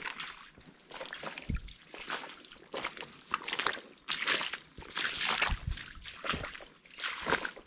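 Footsteps wading through shallow swamp water, a slosh and splash with each step, repeating every half second to a second.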